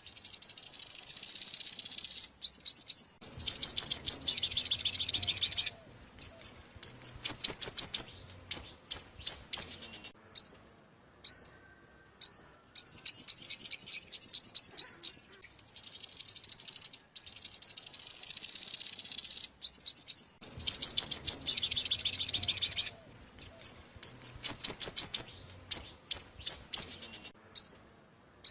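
Sunbird song: loud, high, rapid chirps and sweeping trills in dense runs broken by shorter single notes, a bird-trapping lure call. The same sequence repeats about every 16 seconds, as a looped recording does.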